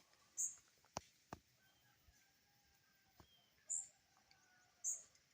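Birds calling: three short, very high chirps spread across a few seconds over faint, lower gliding calls, with a few sharp clicks in between.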